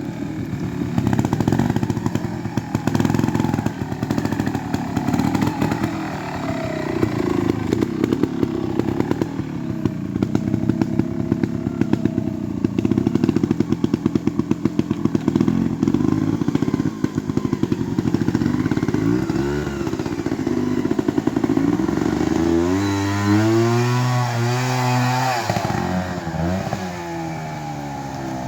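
Trials motorcycle engine running at low revs with short throttle blips, its pitch wavering up and down. Near the end, a clearer engine note rises and falls.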